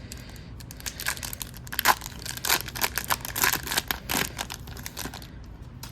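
Crinkling and rustling as a stack of hockey cards and their wrapper are handled, a dense run of quick crackles starting about a second in and easing off near the end.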